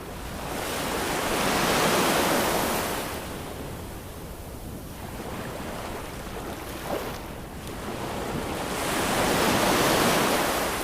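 Ocean waves: two waves surge in and wash out, the first about two seconds in and the second near the end, with a steady, quieter wash of surf between them.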